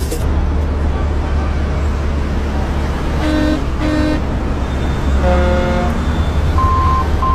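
Vehicle horns sounding over a steady low engine and road rumble: two short toots about three seconds in, then a longer horn blast a second later. Short high beeps come in near the end.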